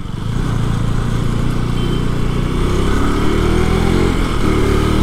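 KTM RC 200 sport bike's single-cylinder engine pulling away, picking up over the first half-second and then running steadily at riding speed, with wind rushing over the helmet microphone.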